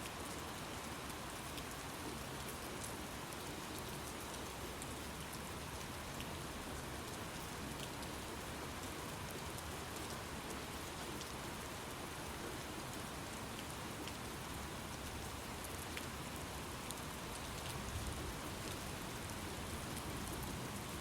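Steady rain falling, an even hiss dotted with the ticks of single drops, and a brief low rumble near the end.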